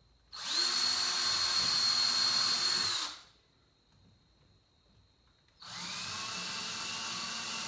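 Electric drill boring into wood in two runs: a louder, higher-pitched run of about three seconds, then after a pause a second, quieter run at a lower pitch. The drill is starting a hole straight down and then angling it.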